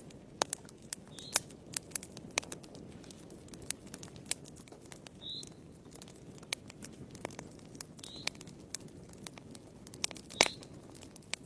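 Wood fire burning in a fireplace, crackling: irregular sharp pops and snaps over a steady low rumble of flames, with the loudest pop about ten seconds in.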